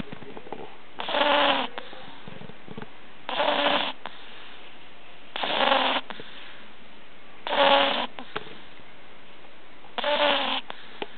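Pug puppy snoring in its sleep: five loud snores in a regular rhythm, about two seconds apart, each lasting about half a second.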